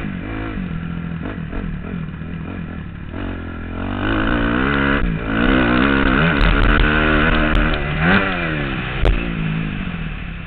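Motocross bike engine heard from the rider's helmet, revving up and down as the throttle is opened and closed, with clattering from the bike over the ground. The engine climbs and runs hardest about halfway through, then eases off near the end.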